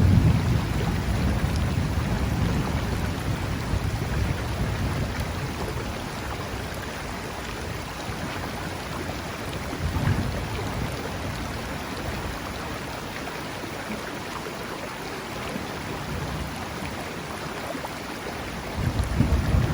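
Thunderstorm rain falling over a river, a steady hiss of rain and running water. A roll of thunder rumbles at the start and dies away over the first few seconds, a short softer rumble comes about halfway, and another rumble builds near the end.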